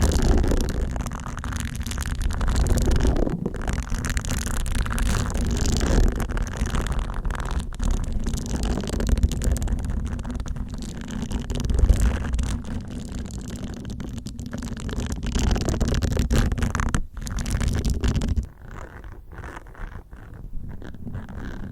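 Facial cleansing brush bristles brushed and scraped in continuous strokes, with a deep rumble under the scratchy bristle noise. About eighteen seconds in it drops to faint, sparse rustling.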